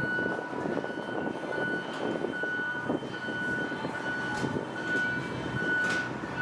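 Train station background din with a repeated high electronic beep, about two beeps a second, and a few scattered clicks.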